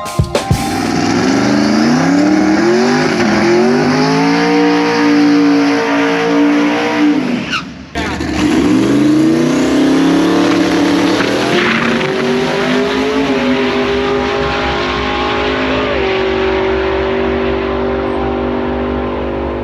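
Twin-turbo small-block Mopar V8 in a 1968 Dodge Dart under full throttle on a drag-strip pass. The engine note climbs in steps, breaks off sharply about eight seconds in, then climbs again and drops once more later on.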